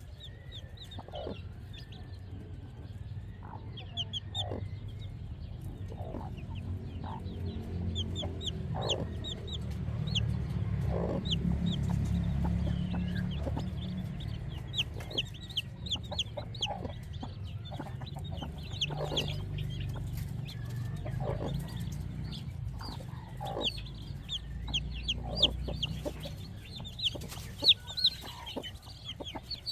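Chickens clucking, with the rapid high peeping of chicks throughout. Under them runs a low rumble that grows louder about a third of the way in.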